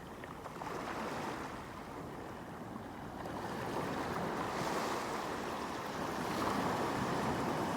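Sea waves washing onto the shore, a steady rushing surf that swells louder through the second half as a wave builds.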